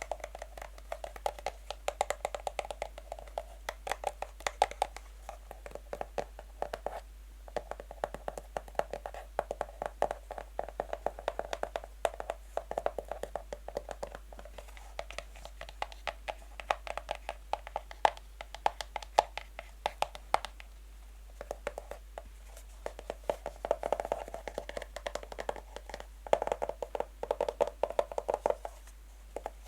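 Natural fingernails tapping fast on a box: a dense run of quick, light clicks with a hollow ring from the box, broken by a couple of brief pauses.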